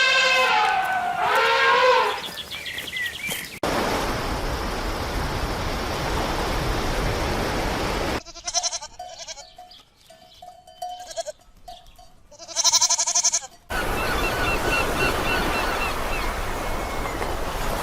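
Farm animal calls in several short cuts: pitched cries at the start, then short calls ending in one loud bleat about two thirds of the way in, separated by stretches of steady outdoor noise.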